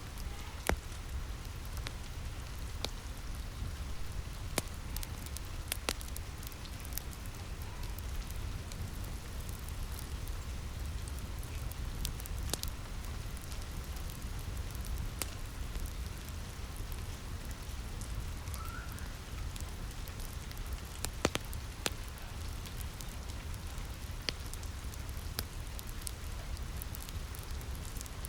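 Steady rain on a roof with a low rumble beneath, mixed with a wood fire crackling in scattered sharp pops.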